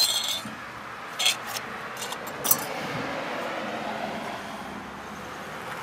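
A few light clinks and knocks as cut-open metal oil filter parts are handled, over steady background noise.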